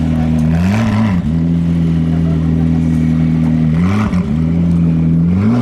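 McLaren P1 twin-turbo V8 idling, its pitch briefly rising and falling about three times as the throttle is blipped.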